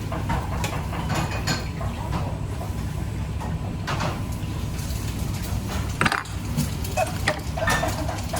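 Kitchen clatter of pans, utensils and dishes: scattered sharp knocks and clinks, the loudest about six seconds in, over a steady low hum.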